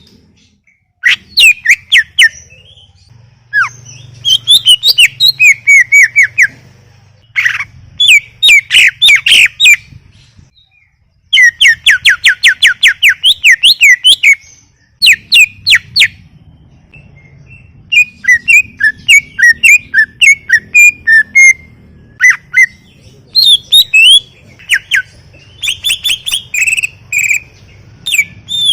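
A cucak ijo (green leafbird) singing in loud bursts of fast, high, down-sliding notes and chattering phrases, with short pauses between the phrases.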